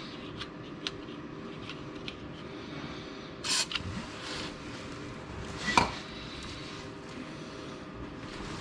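Hand work on a car's rubber exhaust hanger and bracket: a few light clicks and scrapes, a short hiss a little before midway, and one sharp knock about two-thirds of the way through.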